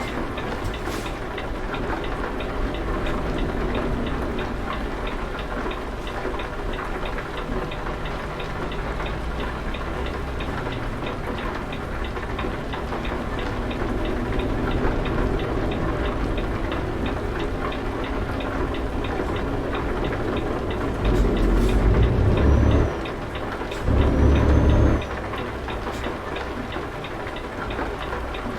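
Semi-truck engine running steadily with road noise while driving. Near the end, two louder, deeper surges of about a second and a half each rise over the drone.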